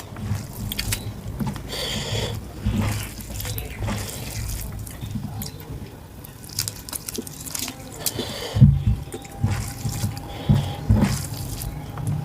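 Close-up wet eating sounds of rice and mutton curry: irregular chewing, smacking and squelching clicks.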